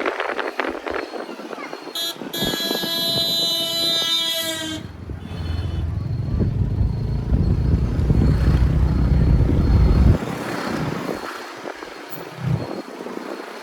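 A vehicle horn on the road: one short toot, then a long blast lasting about two and a half seconds. After it comes a loud low rumble of traffic that stops suddenly.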